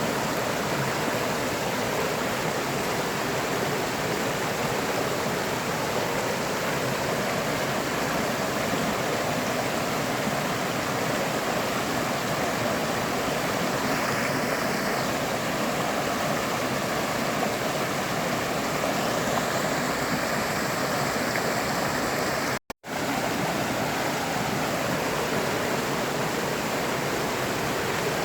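River water flowing, a steady even rush. Once, about two thirds of the way through, the sound cuts out completely for a split second.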